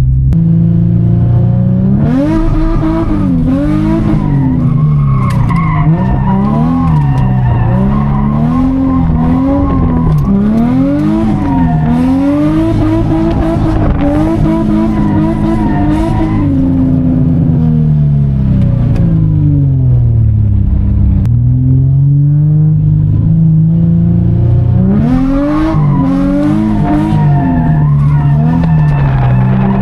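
Infiniti G35's V6 drifting: the engine revs up and down again and again with a loud, raspy exhaust while the tyres squeal through the slides. About halfway through the revs sink and hold lower for a few seconds, then climb and swing again with more tyre squeal near the end.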